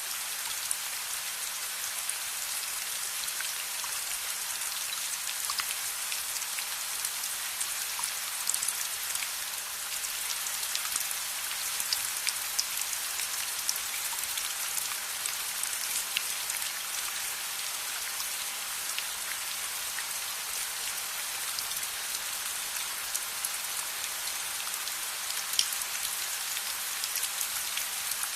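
Steady rain falling, an even hiss sprinkled with many small sharp ticks of individual drops.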